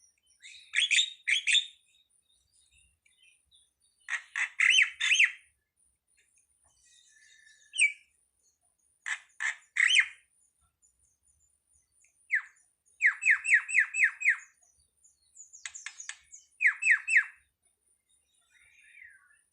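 Starling (jalak) calling in short groups of harsh, chattering notes with pauses of a second or two between them, including a fast run of about six notes a little past the middle.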